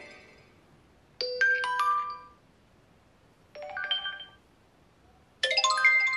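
Three short notification chimes from a Xiaomi POCO M3 smartphone, each a quick run of bright ringing notes. They are separated by pauses of about a second, and the last is still ringing out at the end.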